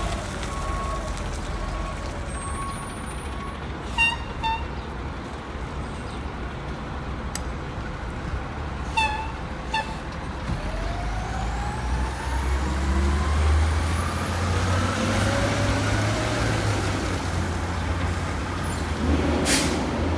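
1989 WhiteGMC Xpeditor garbage truck's diesel engine running, then revving up with its pitch climbing steadily for several seconds and holding high. A few short squeaks come earlier on, and a sharp air-brake hiss sounds near the end.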